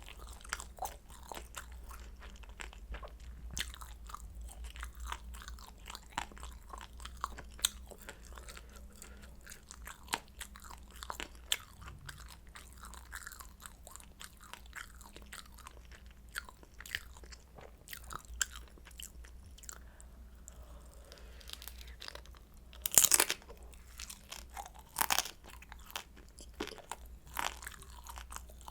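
Close-up chewing of pan-fried kimchi dumplings, their crisp fried wrappers crunching in a steady run of small crackles. Two louder crunches come about two-thirds of the way through.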